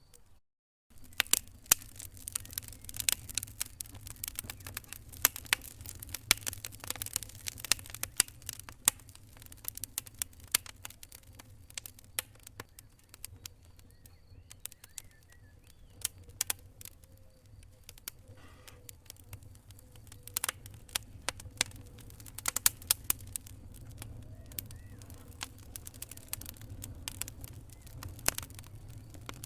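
Wood fire crackling in a fireplace: irregular sharp pops and snaps over a low steady rumble. The sound drops out completely for under a second near the start.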